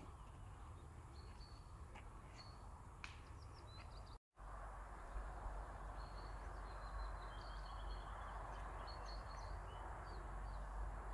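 Small birds chirping and twittering in the forest over steady outdoor background noise with a low rumble, cut by a brief dropout about four seconds in.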